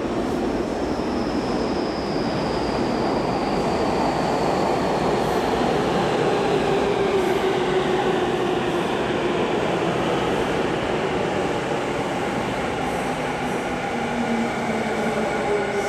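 Seibu 6000 series electric train pulling into the platform, with steady rolling noise and a motor whine that falls slowly in pitch as it brakes. Several steady tones come in near the end as it slows toward a stop.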